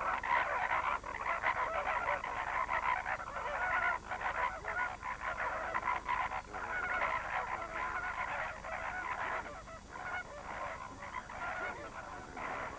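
A flock of flamingos calling together: a dense, continuous chatter of many overlapping honking calls, the group noise of their head-flagging courtship display.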